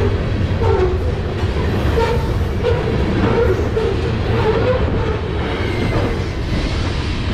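Ferromex freight train's covered hopper cars rolling past close by: a steady, heavy rumble of steel wheels on the rails, with a wavering squeal riding over it.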